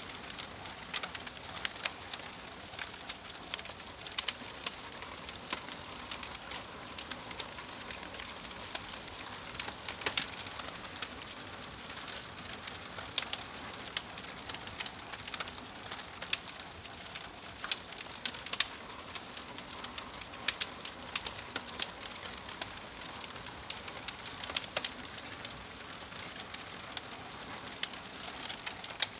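Fire crackling: irregular sharp pops and snaps, several a second, over a steady soft hiss.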